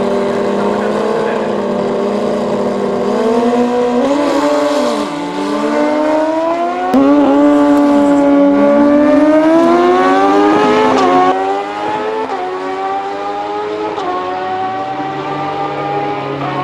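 Two drag-racing Suzuki motorcycle engines, a turbocharged Hayabusa and a nitrous GSX-R1000, running loud and being revved repeatedly, their pitch rising and falling with each throttle blip. Near the end one settles into a steady lower drone.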